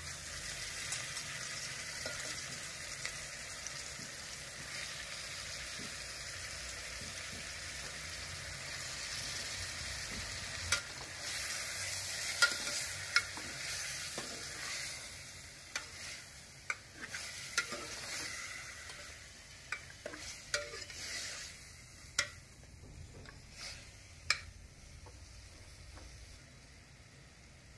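Raw chicken pieces sizzling in hot oil with sliced onions and tomatoes in a metal pot. In the second half a steel ladle stirs them, knocking sharply against the pot several times, and the sizzle dies down toward the end.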